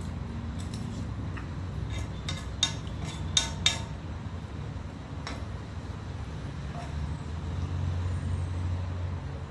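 A utensil clinking sharply against a dish about three times, a few seconds in, over a steady low rumble.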